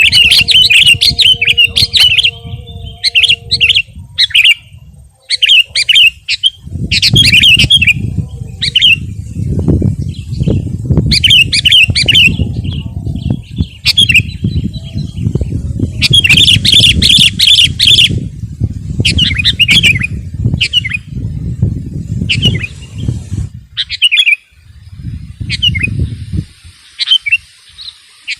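Sooty-headed bulbul (kutilang) in full song, repeating quick, warbling phrases in bursts with short pauses between them. A low rumble runs under the song through much of the middle.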